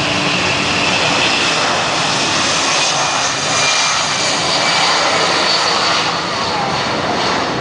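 Fixed-wing aircraft engine noise, a steady rush with a faint high whine.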